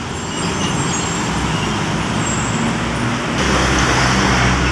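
Scania truck's diesel engine running over road traffic noise as the truck comes closer, getting louder a little over three seconds in.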